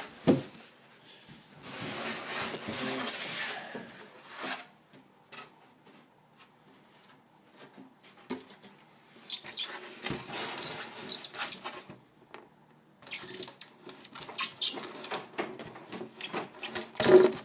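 Rummaging through loose materials and parts by hand: rustling and scratching in several stretches, with scattered clicks and knocks, a sharp knock about a second in and another just before the end.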